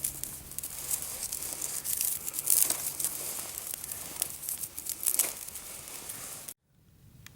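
Freshly lit tinder bundle (an old bird's nest stuffed with birch bark, dry grass and moss) burning with dense, irregular crackling. The sound cuts off abruptly near the end.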